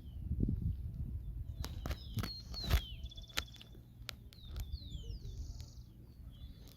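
Small birds chirping in short downward-sliding calls, over a low rumble with a few sharp clicks and knocks, the loudest knock near three seconds in.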